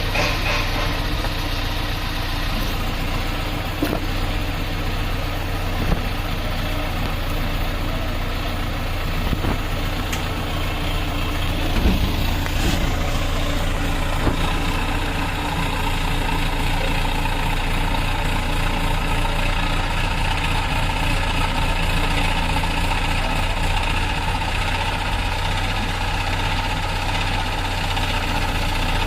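Diesel engine of a heavy construction machine idling steadily, with a few short knocks over it, the loudest about twelve seconds in.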